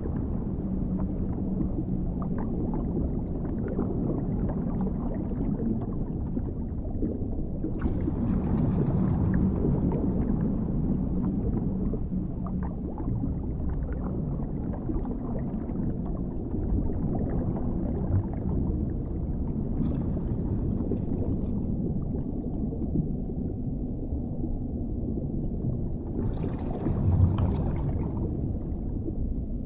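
Dark underwater sound-design ambience: a deep, muffled, steady rumble with a low hum beneath it. It swells brighter three times, about a quarter of the way in, two-thirds through and near the end.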